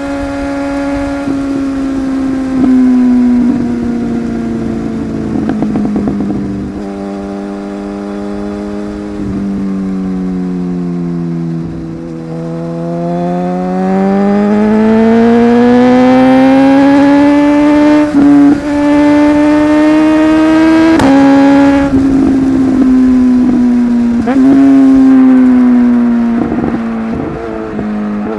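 Superbike engine running under way, its pitch sinking slowly, then climbing steadily as it accelerates from about halfway. Near the end it breaks off briefly twice before easing back down.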